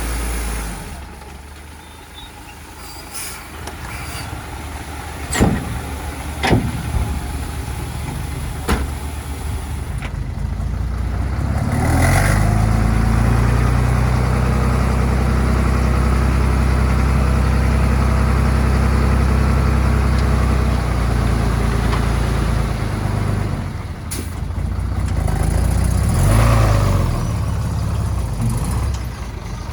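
Heavy diesel earthmoving machinery working, with a few sharp metallic clanks early on. About twelve seconds in, the engine comes up to a loud, steady pull under load for around ten seconds, eases off, then swells briefly once more.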